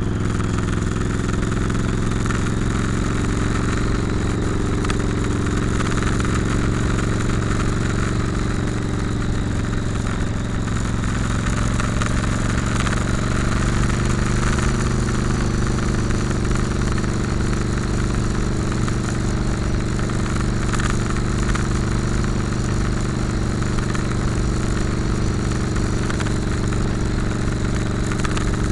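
Motorcycle engine running under way at a steady cruise, its pitch drifting slightly up and down as the throttle and speed change.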